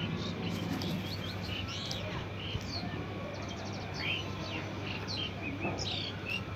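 A chorus of small birds chirping and twittering, with many short overlapping calls and quick slurred notes, over a steady low hum.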